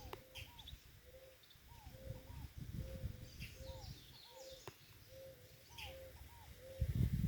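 Birds calling: scattered high chirps over a low two-part call that repeats evenly, about every 0.7 seconds. A louder low rumble comes near the end.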